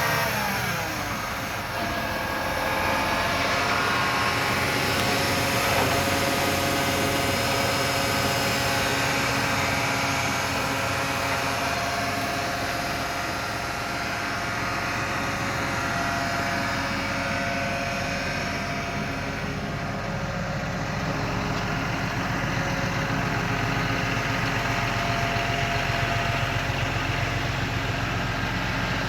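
John Deere 7200R tractor's diesel engine running, its speed dropping in the first couple of seconds and then holding a steady idle.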